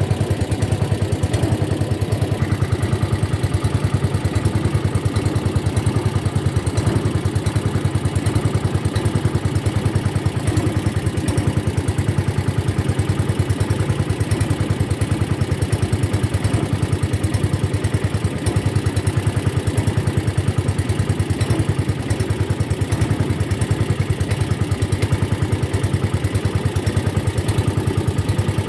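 A boat engine running steadily at a constant speed, with a fast, even low pulse.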